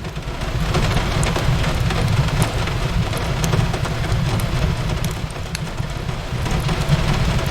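Steady rain on a window over a low rumble, with a wood fire's crackles and pops scattered throughout.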